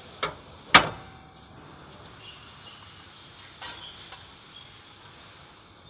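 Two sharp knocks about half a second apart, the second much louder, followed by a few faint clicks over a low background.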